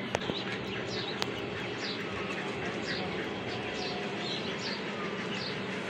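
Small birds chirping: short falling chirps repeated about twice a second, over a steady low hum. A few sharp taps come near the start.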